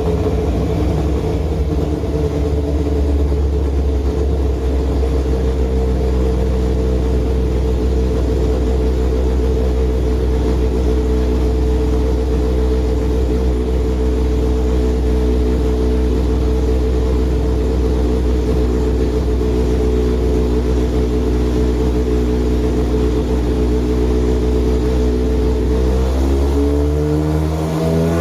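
Big-bore Kawasaki ZZR1100 inline-four motorcycle engine running on a dyno, holding steady revs, then revving quickly upward near the end. This is part of breaking in the new engine's piston rings and bearings.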